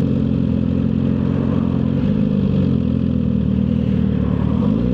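Suzuki GSX-R1000R inline-four engine running steadily at low revs through a full aftermarket exhaust, its note shifting slightly near the end.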